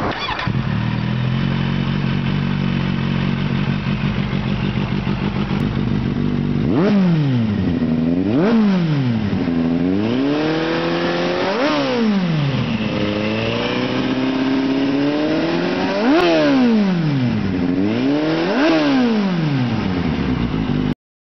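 Kawasaki Z800 inline-four with an aftermarket exhaust, idling steadily and then revved about five times, each rev rising quickly and dropping back to idle, one with a slower build. The sound cuts off suddenly near the end.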